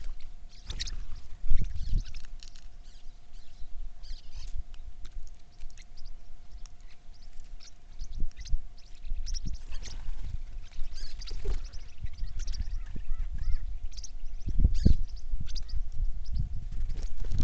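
Birds chirping in short, scattered calls, with a faint steady hum beneath and a few low thumps.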